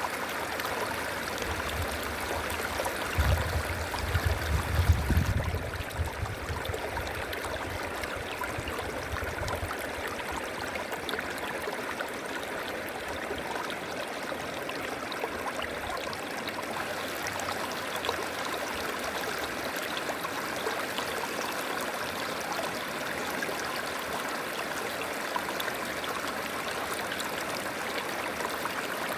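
River water flowing in a steady rush. A few seconds in, a deep low rumble swells and dies away by about ten seconds.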